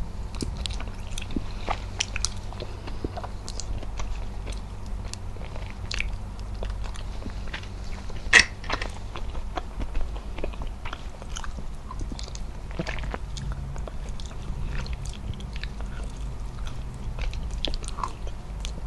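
Close-miked mouth sounds of someone eating braised beef trotter with their hands: chewing with frequent small smacking clicks, and one sharp, louder smack a little past the middle, over a low steady hum.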